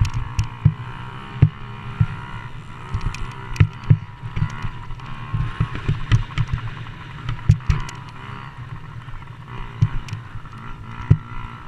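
Motocross dirt bikes running on the track, their engines rising and falling in pitch as they race, with irregular low thumps on the microphone.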